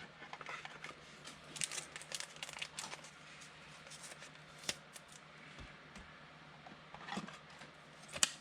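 Trading cards and their packaging being handled: soft, scattered crinkling and rustling, with a sharper tick about four and a half seconds in and another near the end.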